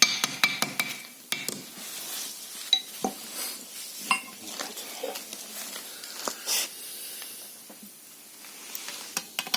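Metal parts of a KNORR air disc brake caliper being handled and fitted: irregular sharp clicks and clinks of steel on steel, with a short rasp about six and a half seconds in.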